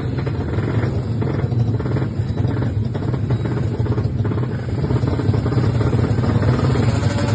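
Two-stroke drag bike engine running steadily, with a dense, rapid exhaust pulse.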